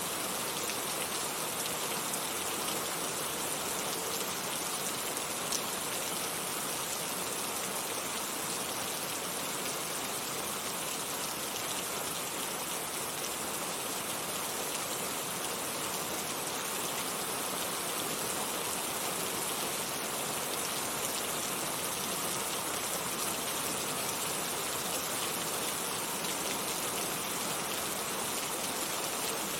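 Heavy rain falling steadily, a dense, even hiss of countless drops striking surfaces, with no letup or change in strength.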